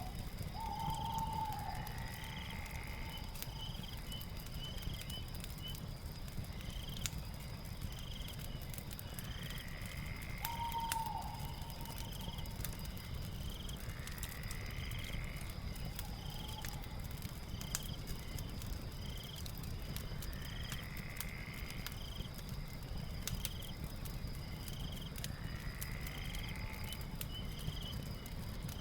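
Night ambience: a steady high insect drone with chirps repeating about once a second, and longer animal calls coming back about every five seconds. Scattered crackles and a low rumble from a fireplace fire run underneath.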